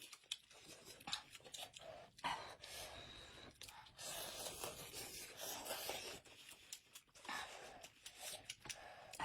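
Eating sounds at a small hot pot: irregular chewing and mouth noises, with a few sharp clicks.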